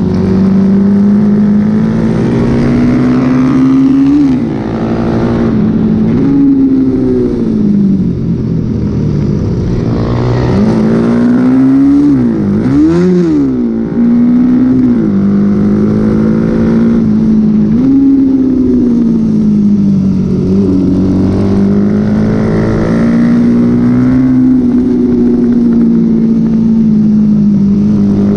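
Honda XL motorcycle engine racing hard, its note climbing and dropping again and again through gear changes and throttle. About halfway through it dips sharply, then gives a quick rise and fall.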